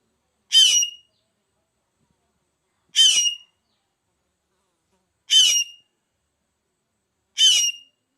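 A loan phượng bird giving four short, harsh calls about two to two and a half seconds apart, each ending in a clear whistled note.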